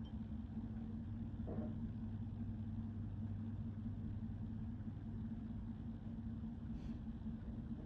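Steady low hum with two even tones, with one faint short sound about a second and a half in.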